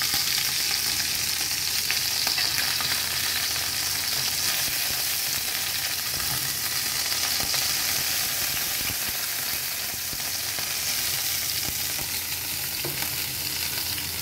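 Chicken searing in hot oil in a cast-iron skillet, a steady sizzle with a few faint clicks.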